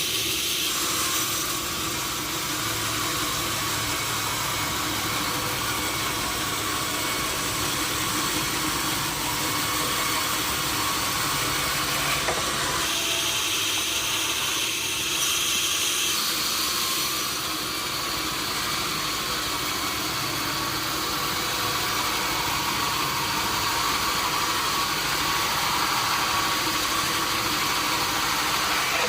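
Sawmill machinery running steadily: a continuous mechanical noise with faint high whines that come and go.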